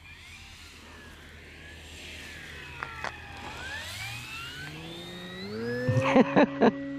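The E-flite Carbon-Z Cessna 150 model's electric motor and propeller whining, rising in pitch over several seconds and then holding a steady tone. A few sharp knocks sound about six seconds in.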